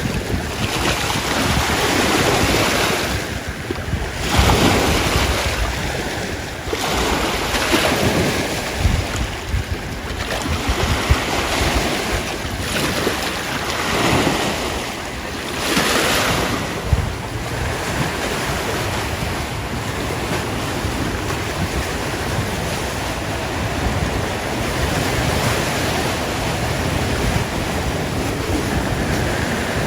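Rushing noise of waves, with wind on the microphone. It swells and eases every few seconds for the first half, then holds steadier.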